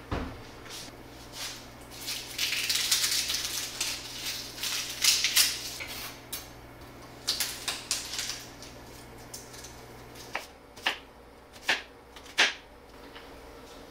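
Kitchen handling: clinks and rustling as a pan is set on the stovetop and a knife is drawn from a wooden knife block, then a chef's knife chopping garlic cloves on a wooden cutting board, a few separate knocks near the end.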